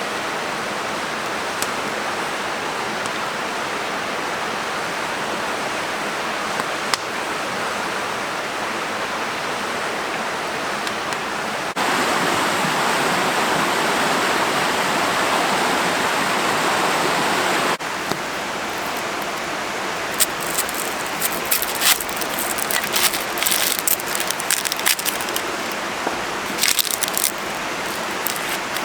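Steady rushing noise, louder for about six seconds in the middle between two abrupt cuts, with a run of sharp crackles and clicks over the last third.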